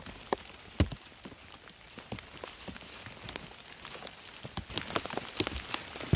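Rain falling outdoors, with irregular drips ticking on surfaces and a few sharper knocks, the loudest about a second in.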